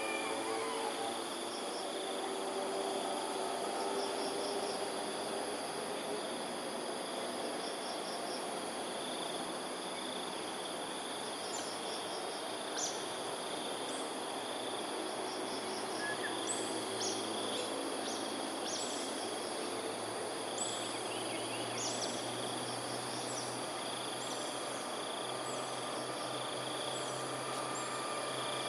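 Outdoor ambience of insects trilling in a steady high drone, with small birds giving short, high chirps that come more often in the second half. A low steady hum rises in near the end.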